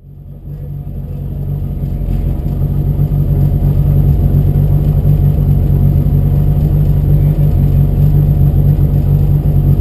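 Peugeot 205 Rallye's four-cylinder engine running steadily, heard from inside the stripped cabin through a helmet camera. The sound fades in over the first few seconds, then holds at an even pitch without revving up or down.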